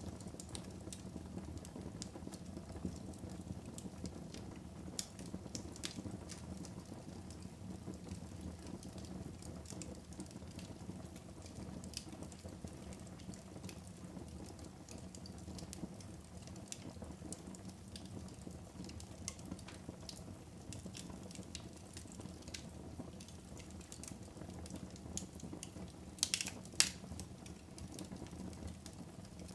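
Wood fire burning in a fireplace: a steady low rumble of flames with scattered sharp crackles and pops, and a louder burst of crackling near the end.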